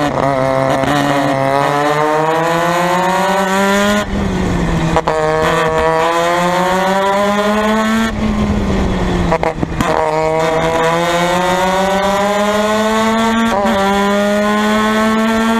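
Formula Mazda race car's rotary engine under hard acceleration, its pitch climbing through the revs with a sharp drop at each gear change, twice. About halfway through it falls away as the car slows, then climbs again through the gears.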